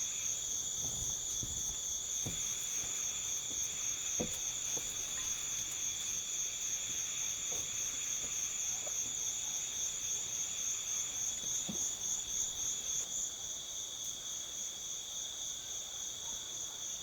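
Insects chirring in a steady, high chorus, one of them in a fast, even pulsing trill, with a few faint knocks scattered through it.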